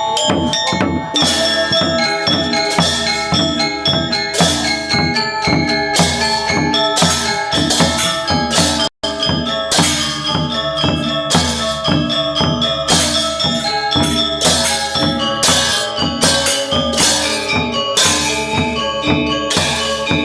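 Balinese gamelan gong ensemble playing a classical lelambatan piece: bronze metallophones and gongs ringing in a steady beat, with bright cymbal strokes on top. The sound cuts out for an instant about nine seconds in.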